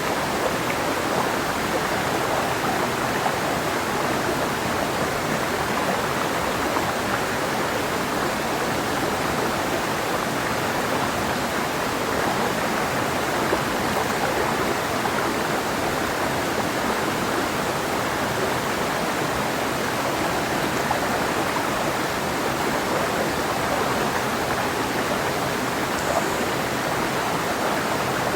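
Clear mountain river flowing over rocks: a steady, even rushing of water.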